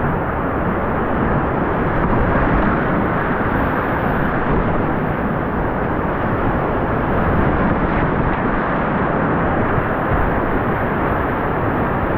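Steady rushing of a whitewater creek rapid, loud and close to the microphone.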